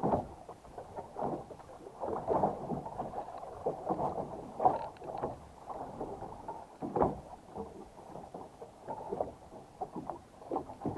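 Irregular knocking, clattering and scraping, with a few sharper knocks.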